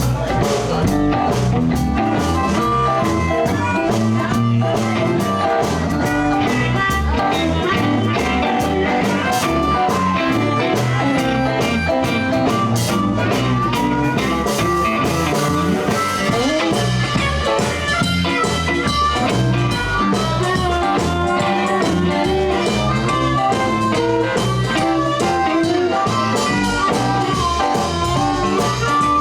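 Live blues band playing a shuffle: guitar over drums and bass, with no vocals.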